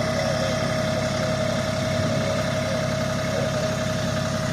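Tractor engine running steadily, with a constant whine held on one pitch above the engine sound.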